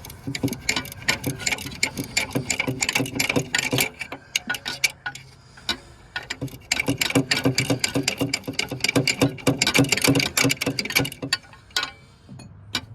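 Ratchet wrench clicking rapidly as a bolt is turned out, in two long runs of fast clicks with a short break between them, stopping about a second before the end.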